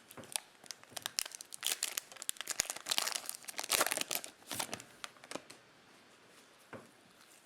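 Foil trading-card pack wrapper crinkling and tearing as it is handled and opened, a dense crackle for about five seconds that then stops, with one more crackle near the end.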